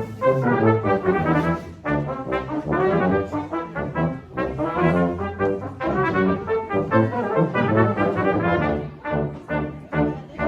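Brass quartet playing an ensemble passage of short, separate notes and chords.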